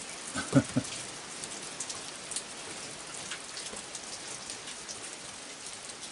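Steady rain falling, with many small drips ticking on surfaces. A couple of short low knocks come about half a second in.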